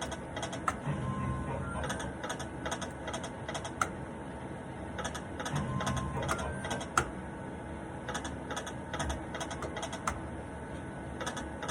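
Electronic poker machine game sounds: a run of quick clicks and ticks with short electronic beeps and chimes, as from reels spinning and stopping.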